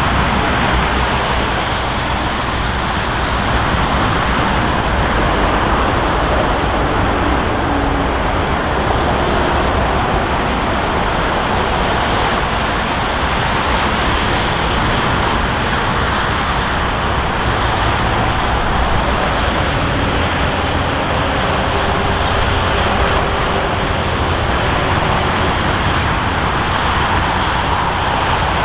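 Airliner jet engine noise: a loud, steady rushing noise that neither builds nor fades.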